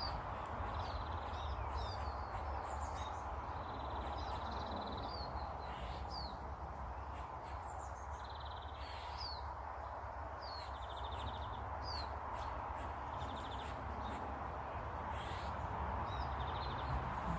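Small birds calling: repeated short, high chirps and several brief buzzy trills, over a steady low background rumble.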